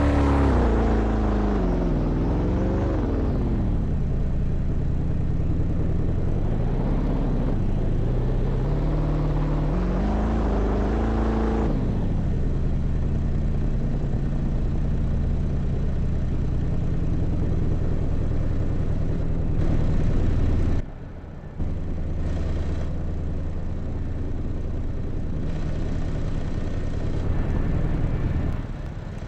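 Motor vehicle engine and road rumble: the engine pitch falls, then climbs twice as the vehicle slows and accelerates, and about twelve seconds in it settles into a steady drive.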